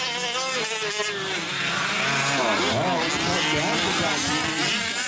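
Several small two-stroke engines of 5th-scale gas RC trucks racing together, their overlapping whines rising and falling as they rev up and back off.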